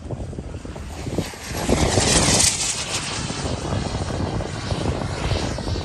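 Radio-controlled model airplane flying overhead, its engine noise rising sharply about two seconds in as it passes close, then holding steady.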